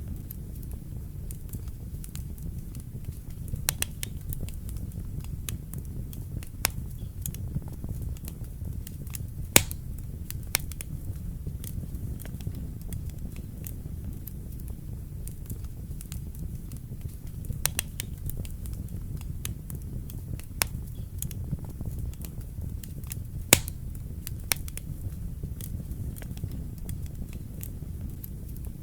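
Wood fire burning in a fireplace: a steady low rumble with scattered sharp crackles and pops, two louder pops about ten seconds in and near the end.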